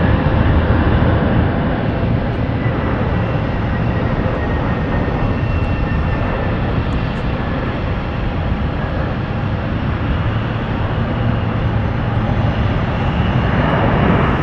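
Jet airliner's engines running: a steady rush with faint whining tones, swelling a little near the end.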